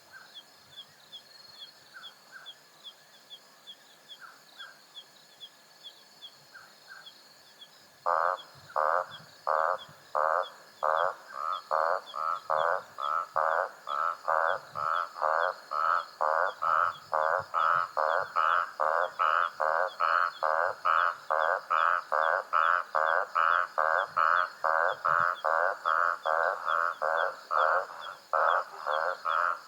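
A frog croaking in a long, quickening series of short calls that starts about eight seconds in, reaching about three croaks a second. Underneath runs a steady high insect trill with faint rapid ticking.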